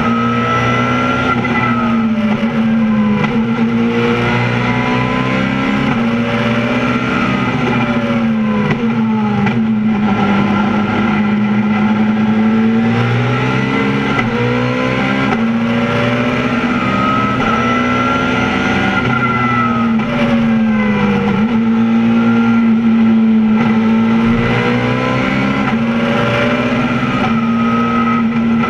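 Race car engine heard from inside its stripped, roll-caged cabin, revving up through the gears and easing off. The pitch climbs steadily and then drops sharply at each gear change, over and over.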